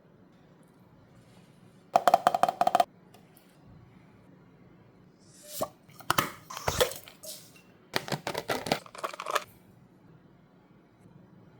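A large dog eating from its bowl: three bursts of rapid clicking and clattering against the dish, the first with a short ringing tone.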